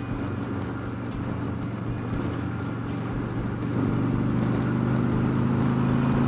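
Motorcycle engine running at highway cruising speed, a steady drone that grows louder about four seconds in.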